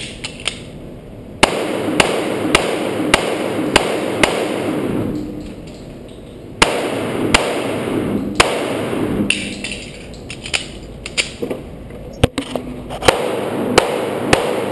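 Taurus PT1911 .45 ACP pistol firing strings of shots about two a second, broken by pauses of a second or two.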